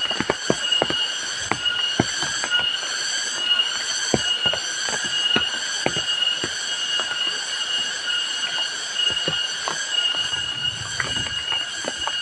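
Rain falling, heard as many sharp scattered drops tapping close by. Under it runs a steady high-pitched whine that pulses about twice a second.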